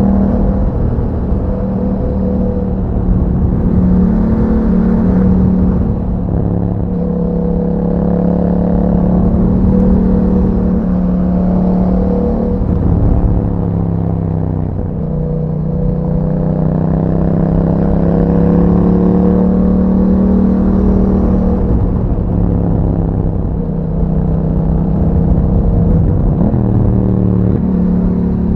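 Yamaha MT-07's 689 cc 270° parallel-twin engine running under way through an Akrapovic exhaust with a dB killer fitted, holding a steady note. The engine pitch drops and climbs again a few times, around six, fourteen and twenty-four seconds in, as the throttle is eased and reopened.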